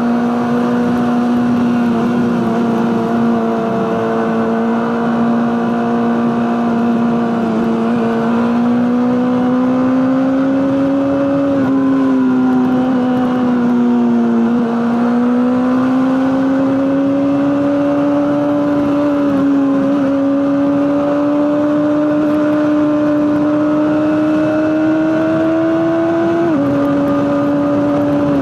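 Honda CBR600RR inline-four engine through an Akrapovic exhaust, running at steady mid-range revs under way. Its pitch holds, creeps slowly upward, dips and recovers around the middle, and drops suddenly near the end, like an upshift.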